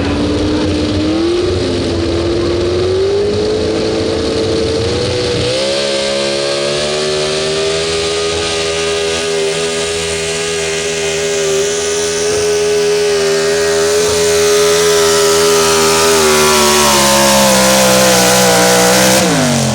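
Super Stock 4x4 pulling truck's engine at high revs under load, its pitch climbing over the first few seconds and then holding a steady high scream. Near the end the revs drop sharply as the throttle comes off at the end of the pull.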